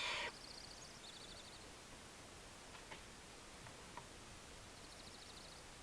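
Barn owl chick giving a short, harsh rasping begging call at the very start. After it come faint, high, fast-pulsed trills a few times and a few soft clicks.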